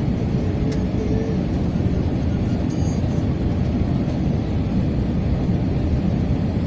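Cabin noise aboard an Airbus A321: a steady low rumble of the engines and airflow, even throughout.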